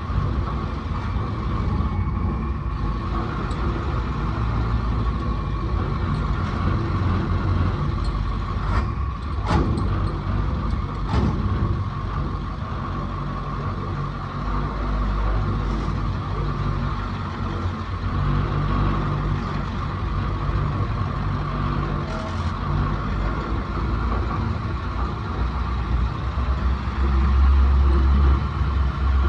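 Heavy vehicle engine running steadily, with a few sharp clicks about nine to eleven seconds in.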